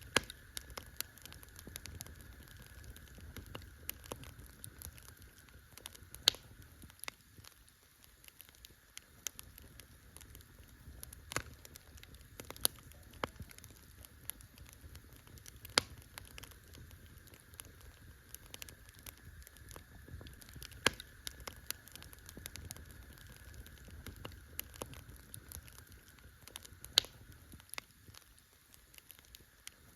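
Wood campfire crackling: a dense, irregular run of small snaps, with a handful of much sharper, louder pops scattered through, over a soft low rumble of the burning fire.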